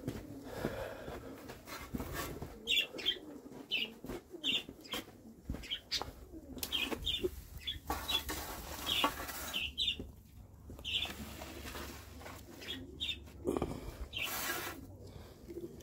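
Birds chirping, many short high chirps scattered throughout, with wings flapping now and then.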